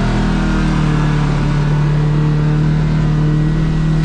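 Kawasaki KRX side-by-side's engine running under way at a steady, even pitch.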